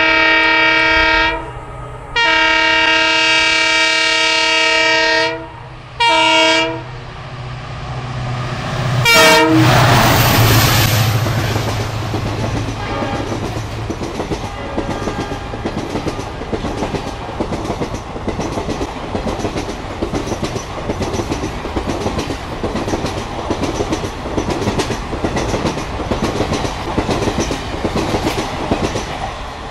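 Train horn blowing in blasts: the end of one, a long blast, then a short one. About nine seconds in, a brief final blast drops in pitch as the train passes at speed. Then the rhythmic clickety-clack of passenger coach wheels over the rail joints as the coaches run through.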